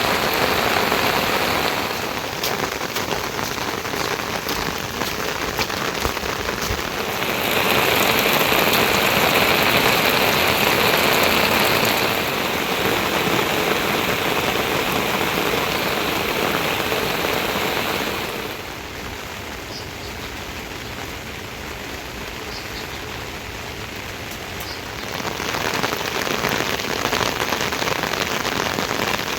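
Steady rain falling, a dense hiss with no single drops standing out. Its loudness and tone jump abruptly several times, louder and brighter for a few seconds, then duller and quieter for several seconds near the middle.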